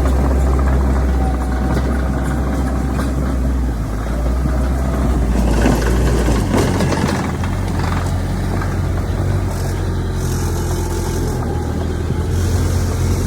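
Heavy diesel engine running steadily under a loud low drone. The note shifts about six and a half seconds in, and a few clanks sound just before that.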